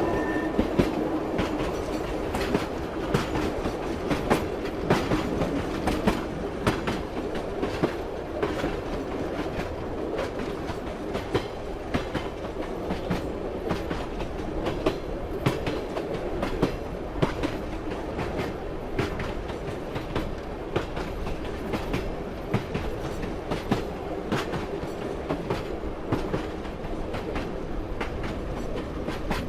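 Train running along the track: a steady rumble of the carriage with wheels clicking over rail joints again and again.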